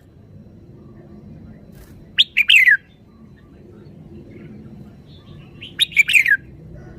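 Red-whiskered bulbul singing two short song phrases, about two seconds in and again near six seconds, each a quick run of falling notes.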